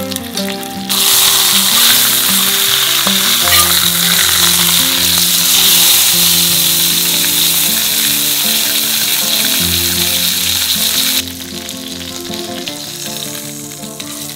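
Whole slab of pork belly searing in hot oil in a cast-iron pot: a loud, steady sizzle that cuts in about a second in and drops away abruptly after about eleven seconds. Background music plays underneath throughout.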